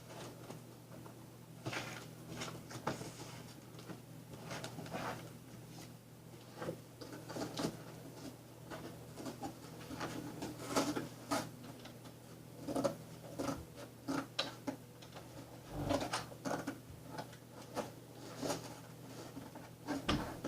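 Scissors cutting cardboard, with irregular snips, scrapes and rustles as the cardboard is handled, over the steady low hum of a window fan.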